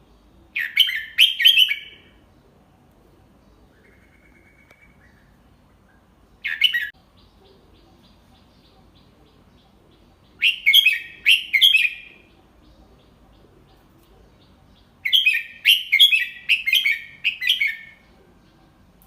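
Red-whiskered bulbul singing: four short bursts of quick, repeated whistled notes a few seconds apart, the longest phrase near the end.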